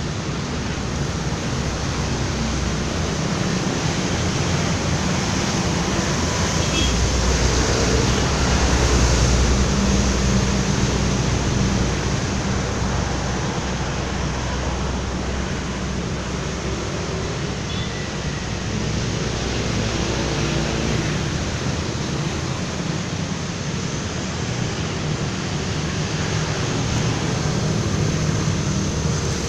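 Heavy rain with strong wind: a steady, loud rushing noise, with a low rumble underneath that swells a little about a third of the way in.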